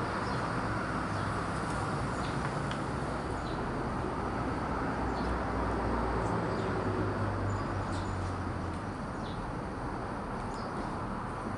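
Steady background noise with a low hum, dotted with scattered short high chirps.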